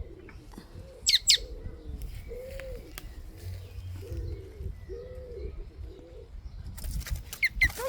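A bird cooing in a run of short, soft arched notes, one after another. A brief high double chirp from another bird comes about a second in.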